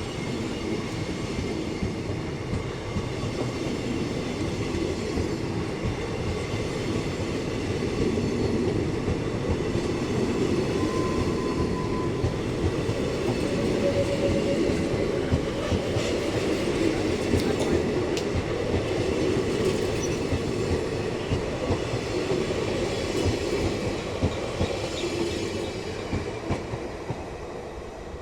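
A train's coaches rolling past on the rails, with wheels clicking over rail joints in a steady run of clacks. The sound grows louder toward the middle and fades near the end.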